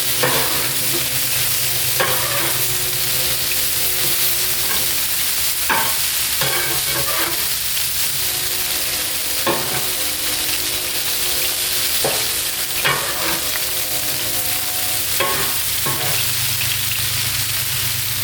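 Pork bites sizzling steadily on a Blackstone flat-top griddle, with a sharp metal knock every second or two from the spatula on the steel griddle top, each ringing briefly.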